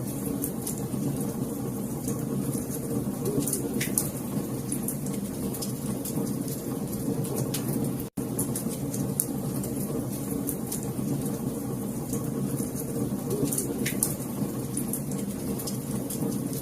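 Wood fire burning, with a steady low rumble and scattered sharp crackles and pops. The sound cuts out to silence for an instant about eight seconds in, then resumes.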